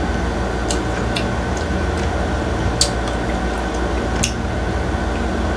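Steady low room hum from an air conditioner, with a handful of short sharp clicks of someone chewing and eating a juicy mango.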